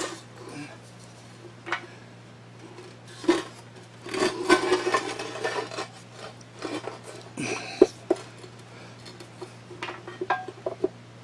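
Metal parts of a drill grinder's electric motor being handled and set upright on a workbench: scattered knocks and clinks, with a denser stretch of clattering about four seconds in and a sharp knock near the eight-second mark.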